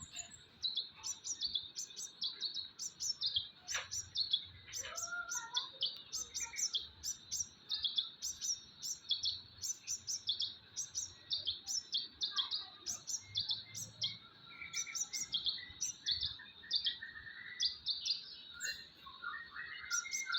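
A sunbird singing a long run of high, sharp chirps, repeated about twice a second, its song filled with phrases learned from the white-rumped shama. A faint steady high tone runs underneath, with a few softer, lower whistles now and then.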